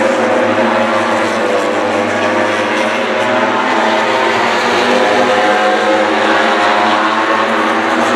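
Racing motorcycle engines heard from trackside: a loud, continuous engine drone whose pitch drifts slowly up and down, without a single bike sweeping past.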